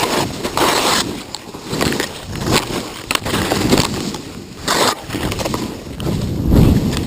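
Skis sliding and scraping over snow in uneven repeated swooshes, with low rumble between them.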